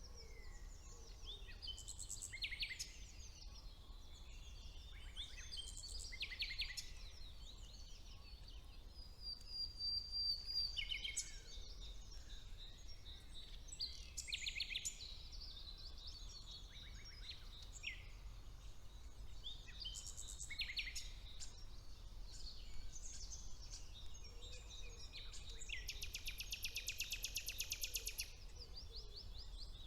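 Woodland songbirds singing overlapping phrases, with a fast, dense trill lasting about three seconds near the end. A steady low hum lies underneath.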